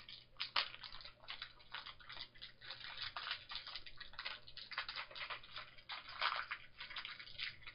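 Small plastic packaging and toy eraser pieces handled by hand: irregular crinkling and crackling, many short rustles in quick succession.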